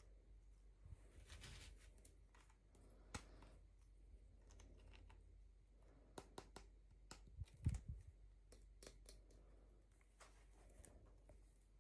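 Faint handling sounds of an unboxing: scattered small clicks and taps of packaging and toy pieces, with a soft thump a little past halfway through.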